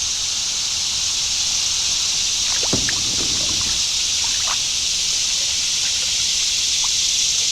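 Creek water rushing steadily past a kayak in a strong current, with a few brief sloshes a few seconds in as the kayak is paddled around.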